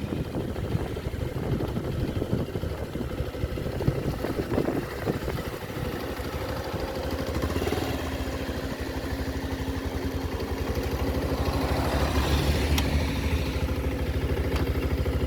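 A vehicle engine idling steadily, with an even low rhythmic rumble and a steady hum joining in about halfway through.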